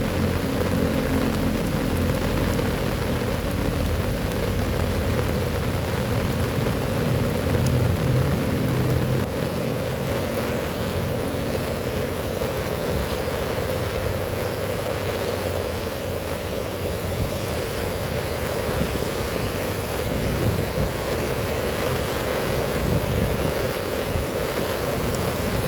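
Heavy rain falling steadily, with a low rumble underneath that fades about ten seconds in.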